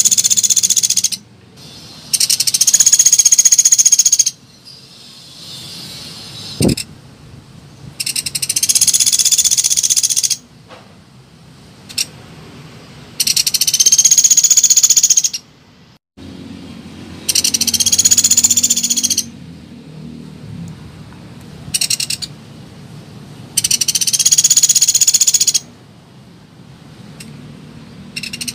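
Pelatuk beras woodpecker calls from a bird-lure recording: loud, high, rapid rattling trills about two seconds long, repeated every few seconds. A single dull thump comes about seven seconds in.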